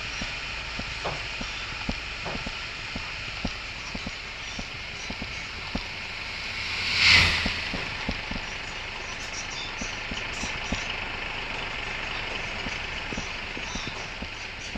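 Outdoor roadside sound: a steady high hiss with small scattered clicks, and a vehicle passing by about seven seconds in, swelling up and fading away within a second.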